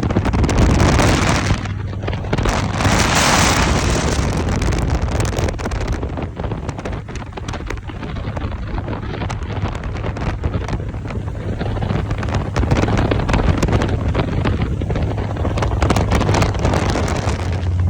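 Heavy wind buffeting the microphone over the steady low drone of a motorcycle engine while riding, with gusts hitting in sudden surges.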